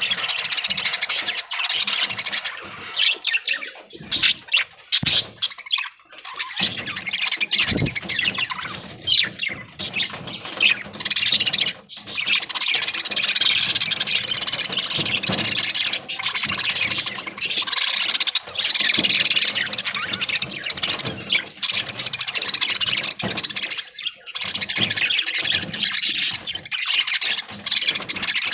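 A flock of budgerigars chattering and warbling continuously: a dense mix of many short, high chirps and squeaks overlapping.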